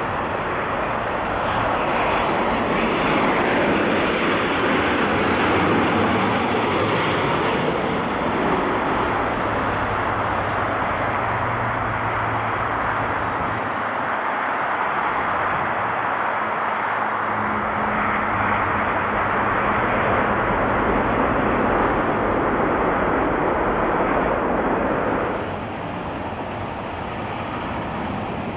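Airliner engines running loud as the aircraft passes, with a high whine falling in pitch over the first several seconds. The engine noise drops off about 25 seconds in.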